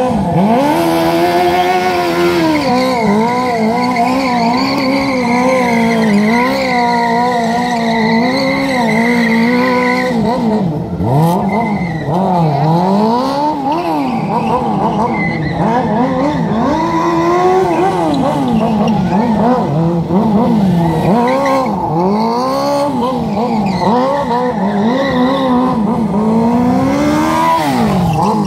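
Sport motorcycle engine held at high revs, its pitch swooping up and down every second or so as the throttle is worked during stunt riding.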